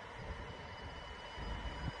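Kintetsu electric train approaching in the distance: a low, uneven rumble on the rails, with faint steady high tones above it.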